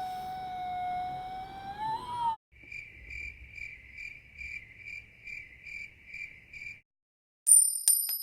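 A cricket chirping in an even pulse of about two chirps a second for roughly four seconds. Before it, a long held animal howl bends upward and stops; near the end, a sudden high metallic ringing starts.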